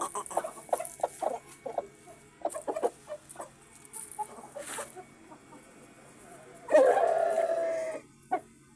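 Aseel chickens clucking in short, scattered calls, then one long, loud, held call about seven seconds in.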